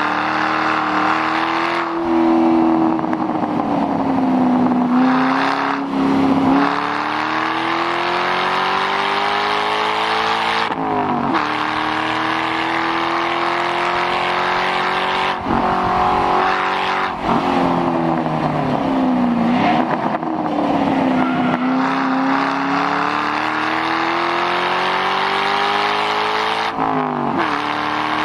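2006 Mustang GT's 4.6-litre V8 through a muffler-deleted exhaust, driven hard on track. The engine note climbs under throttle, drops sharply at a few upshifts, and falls away more slowly when it lifts off for corners.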